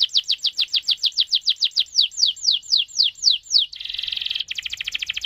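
Domestic canary singing a long rolling phrase. A rapid run of downward-sweeping notes slows about two seconds in, then breaks into a buzzy rattle and a very fast trill near the end.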